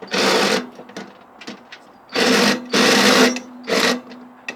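Cordless drill-driver running in four short bursts with a steady whine, backing out the screws that hold a microwave's magnetron.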